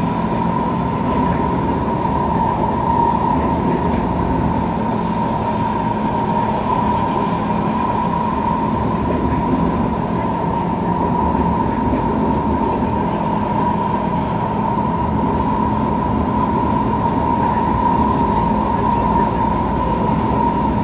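Kawasaki C151 MRT train heard from inside the passenger car while running between stations: steady rolling rumble with a constant high hum over it.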